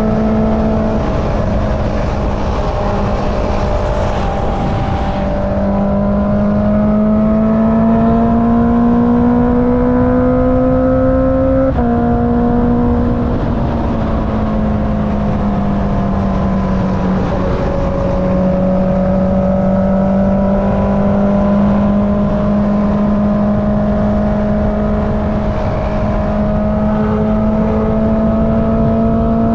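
Honda CB650R inline-four with an Akrapovic exhaust, heard while riding. The engine note climbs slowly under acceleration, drops suddenly about twelve seconds in at a gear change, then holds a steady cruise and creeps up again near the end.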